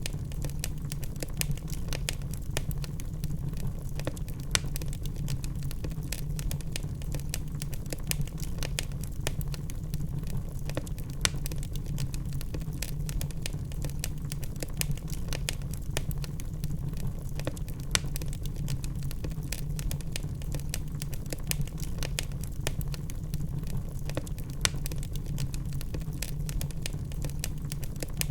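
Wood logs burning in a fireplace: dense, irregular crackling over a steady low rumble, with a handful of louder pops.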